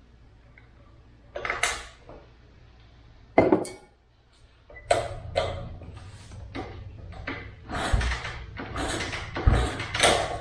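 Scattered knocks and clatter of hard objects being handled, sparse at first and coming thick and fast over the second half.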